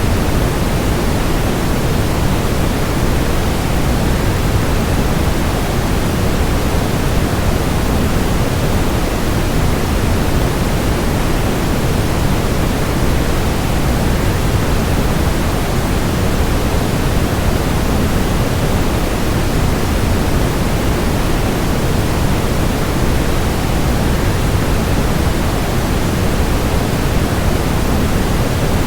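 Steady rushing of a waterfall blended with white noise, heavier in the low range and unchanging.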